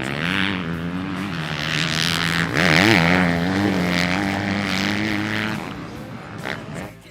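2023 Honda CRF250R's single-cylinder four-stroke engine running at a steady idle, blipped once about two and a half seconds in, with its note stopping a little past five seconds in.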